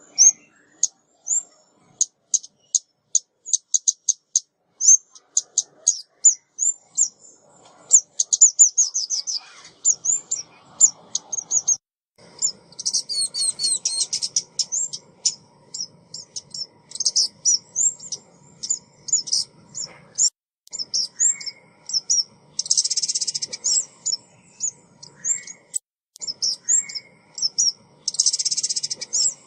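Female 'chim ốc mít' songbird calling, used as a trapping decoy: a quick string of short, high chirps and twitters, broken by a few denser buzzy trills.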